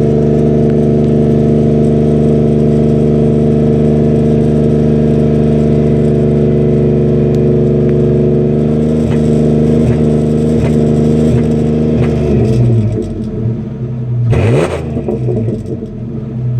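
2004 Ford Ranger's exhaust through a Flowmaster Super 40 muffler with a 3-inch tip, running at a steady engine speed with a low, even drone. About twelve seconds in the steady note breaks off, and near the end there is a short, loud rush whose pitch dips and rises again.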